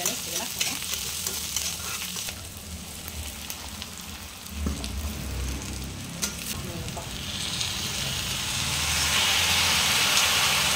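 Chopped onion and spices frying in a wok, stirred and scraped with a steel spatula. Fried jackfruit pieces are tipped in partway through, and the sizzle grows steadily louder over the last few seconds.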